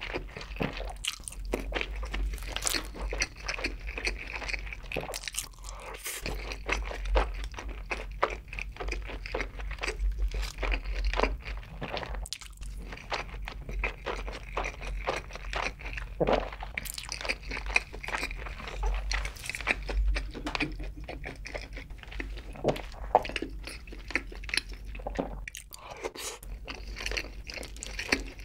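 Close-miked ASMR eating sounds: a person chewing with many small, irregular crunches and clicks while eating rice and sweet-sauced fried chicken.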